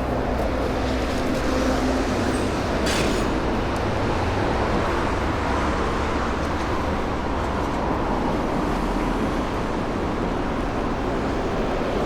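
Steady road traffic noise in a city street, heard from a moving bicycle, with a brief hiss about three seconds in.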